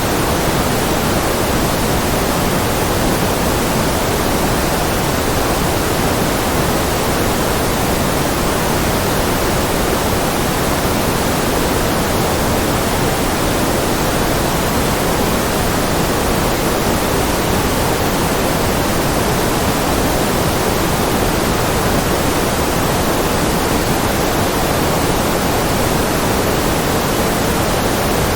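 Steady synthetic noise from a white-noise track, even and unchanging, fuller in the lows and mids than in the highs.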